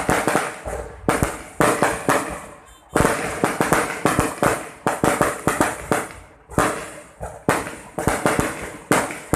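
Fireworks display: a rapid series of loud bursts, about one a second, each trailing off in crackling.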